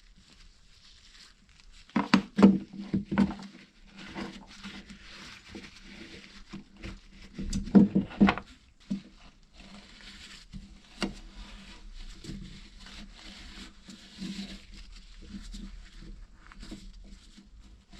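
Parts of a pull-cord recoil starter being handled and knocked together on a workbench: two short bursts of clattering, about two seconds in and about eight seconds in, with lighter handling noise between.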